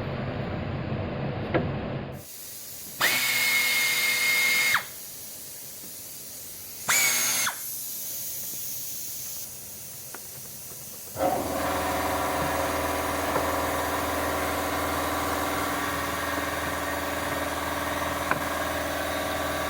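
A cordless drill-driver spins twice, first for about two seconds and then for under a second, each time a steady whine that winds up and down. About eleven seconds in, a car engine starts a steady idle hum.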